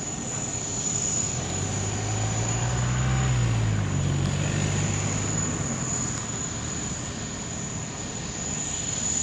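A distant aircraft flying, its low engine drone swelling about two seconds in and fading out again a few seconds later.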